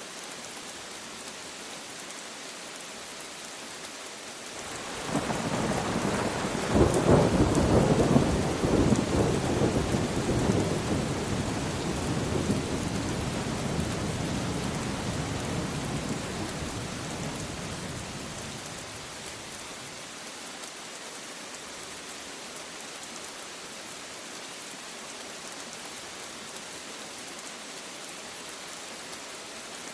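Steady rain falling, with a roll of thunder that builds about five seconds in, cracks loudest a couple of seconds later and rumbles away slowly over the next ten seconds.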